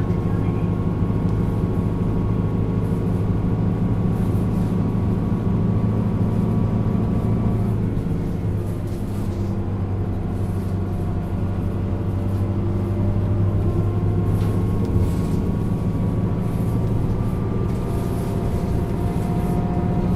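Isuzu Erga LV290N1 city bus's four-cylinder diesel engine running under way, heard from inside the cabin. About eight seconds in the note drops back, as at a gear change, then builds again, its pitch rising slowly toward the end as the bus gathers speed.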